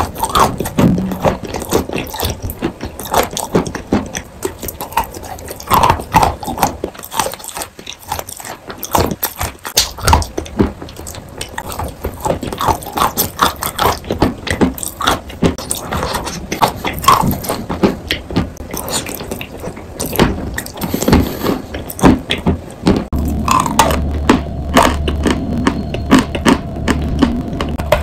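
Close-up chewing and biting of wet, pasty chalk: irregular wet crunches and clicks at an uneven pace. A steady low hum comes in underneath about 23 seconds in.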